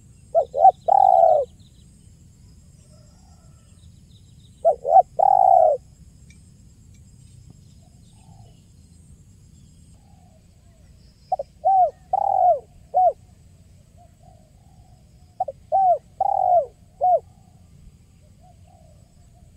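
Spotted dove (tekukur) cooing in the "kuk 1" song style: four phrases of a few short coos and one longer, falling coo, with pauses of several seconds between them.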